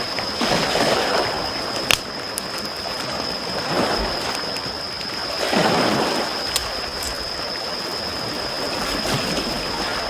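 Small sea waves washing in and out on the shore, swelling several times, with a few sharp pops from a crackling wood campfire.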